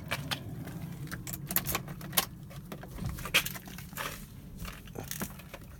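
Keys jangling, with scattered sharp clicks and knocks at irregular intervals.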